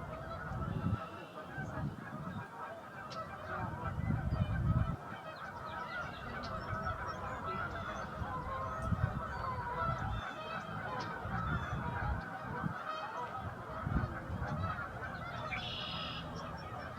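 A large flock of wild geese calling continuously, many honks overlapping into a dense chorus, with intermittent low rumbles underneath.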